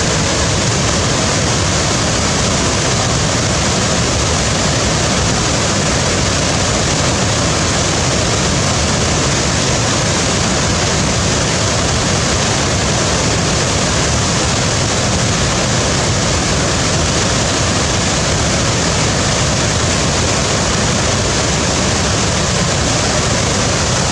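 Waterfall: a steady, loud rush of falling water, even and unchanging throughout.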